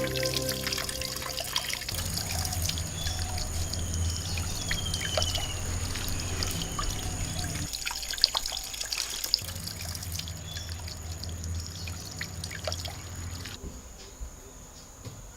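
Water trickling and dripping, with many small splashes and clicks, fading slowly toward the end.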